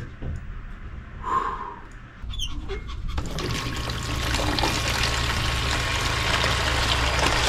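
A low steady hum starts about two seconds in, and a second later water begins running, a steady rushing and splashing that carries on to the end.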